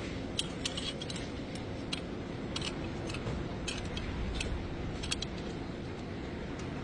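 Short metallic clicks and clinks, about a dozen at irregular intervals, over a steady low background rumble.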